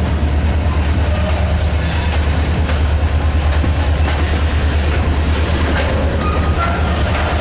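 Covered hopper cars of a freight train rolling past at close range: a steady low rumble of steel wheels on the rails with faint, regular wheel clicks.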